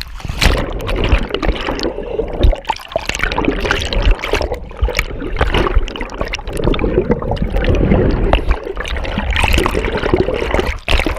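Loud water splashing and gurgling close to the microphone, with many sharp knocks mixed in.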